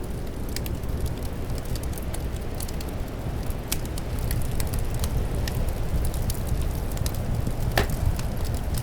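Wood fire crackling with irregular small pops and one louder pop near the end, over a steady low rumble of wind.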